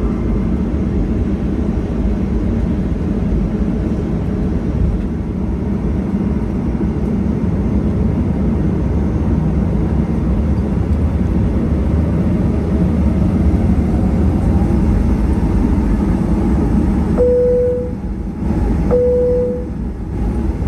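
Steady cabin rumble of a Boeing 737-800 with its CFM56 engines running at low power on the ground. Near the end there are two short, steady, single-pitch beeps.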